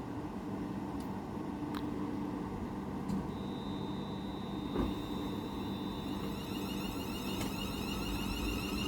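Electric multiple unit pulling away from the platform, with a steady low hum and its traction motors' high whine that rises in pitch as it gathers speed.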